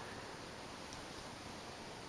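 Faint steady hiss of a 1981 Nadair three-blade ceiling fan running at its slowest speed, about 90 RPM, with no motor hum or clicking to be heard: very quiet.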